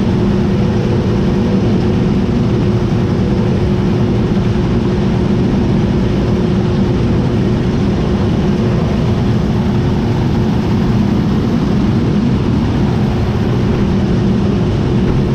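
John Deere T660i combine harvester running steadily: an even, loud machine drone with a held whine, one of its tones dropping away about four seconds in.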